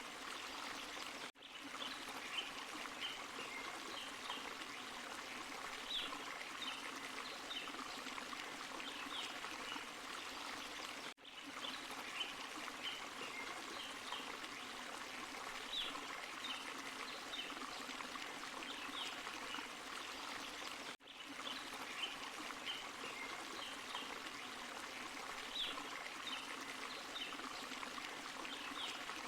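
Forest stream and small waterfall: water splashing and rushing steadily over rocks. The sound dips briefly about every ten seconds, and the same stretch repeats each time.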